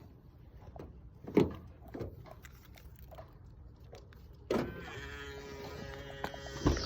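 A car's electric window motor runs with a steady whine for about two and a half seconds and stops with a thump as the glass reaches the end of its travel. A couple of sharp knocks come before it.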